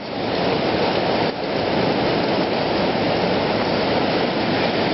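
Rushing floodwater: a steady, even noise with a brief dip a little over a second in.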